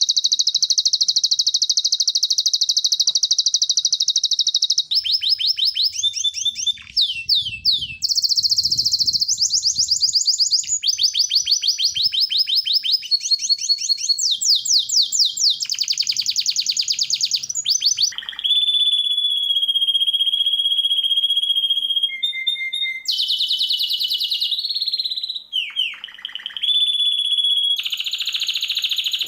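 Songbird song from a bird-training recording: fast trills of rapid-fire repeated high notes in quick-changing phrases, with one long, steady whistle near the middle.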